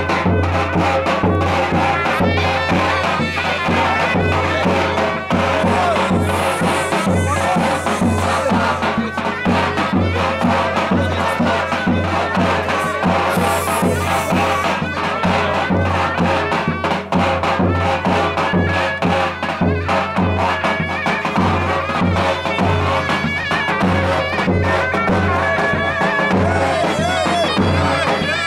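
Loud traditional Turkish folk music: a reedy wind instrument playing a continuous melody over a steady drum beat.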